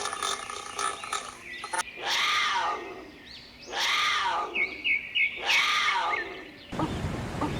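An animal calling three times, each call rising then falling in pitch, about a second and a half apart. Between the second and third call come a few short chirps, and the sound cuts abruptly to other animal sounds near the end.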